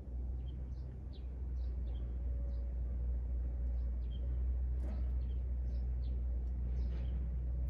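Small wild birds giving short, high chirps, a dozen or so scattered through, over a steady low rumble.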